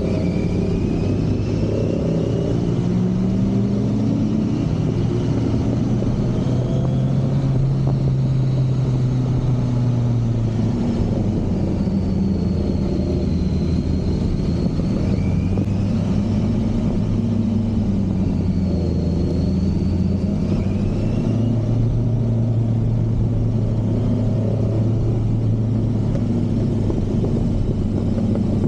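Kawasaki Z900 SE's inline-four engine running steadily while riding, its pitch rising and falling gently with the throttle.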